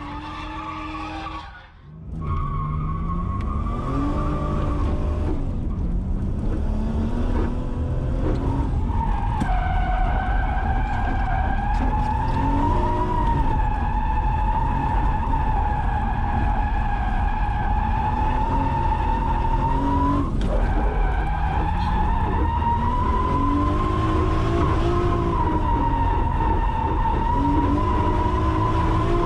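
Drift car's engine revving up and falling back again and again, with its tyres squealing in a long, sustained skid from about nine seconds in, the squeal wavering slightly in pitch.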